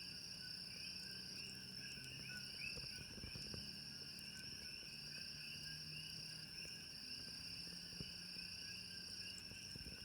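Night insect chorus: steady, layered high trilling and chirping from several insects at once, with a few faint clicks that are likely the campfire.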